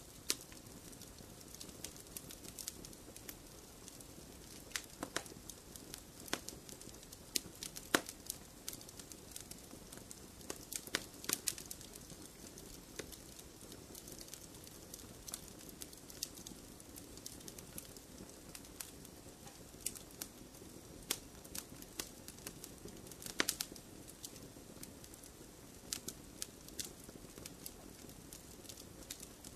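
Wood fire burning in a fireplace: a steady low hiss with irregular sharp pops and crackles from the burning logs, a few louder snaps among them.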